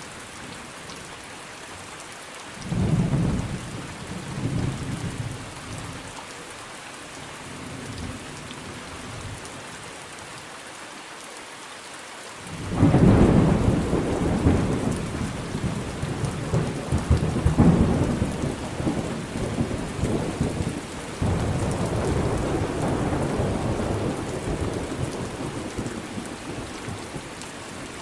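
Steady rain falling, with thunder: a short rumble about three seconds in, then a much louder, long rumble starting near the middle that slowly dies away before the end.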